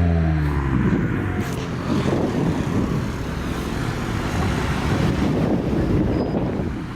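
A car engine note falling in pitch and fading out in the first second as the car goes by, followed by a steady, loud rumble of car engines.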